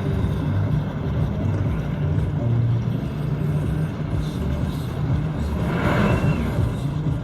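Low, steady engine rumble, with a brief higher-pitched sound about six seconds in.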